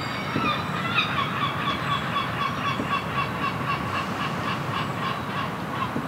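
A bird calling a fast, even series of notes, about four a second, from about a second in until near the end, over a steady low rumble.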